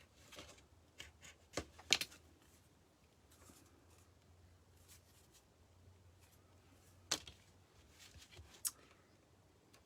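Quiet crafting sounds: a few sharp clicks and light scratching as craft material is cut and handled at a worktable.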